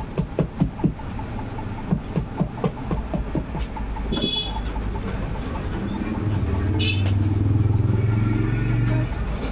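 Roadside traffic. A quick run of sharp knocks, several a second, fills the first few seconds. Then come two short, high vehicle-horn toots, and a motor vehicle's engine passes close, loudest from about six seconds in until it drops away near the end.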